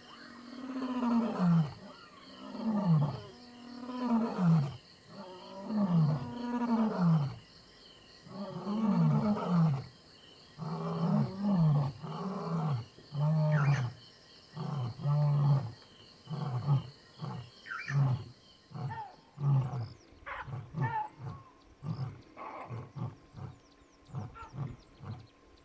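Male lion roaring a full bout: a run of long, deep roars that fall in pitch, about one every one and a half seconds, giving way about halfway through to a series of shorter, quicker grunts that grow fainter toward the end. Roaring of this kind is a territorial call, made while patrolling the territory to warn off trespassing lions.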